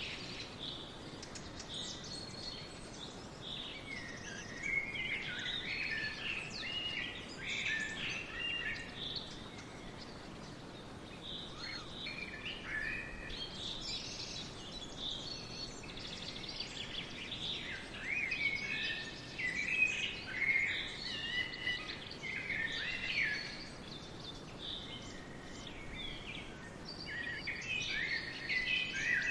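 Songbirds singing: varied chirps and warbled phrases in bursts with short lulls between them, over a steady faint hiss.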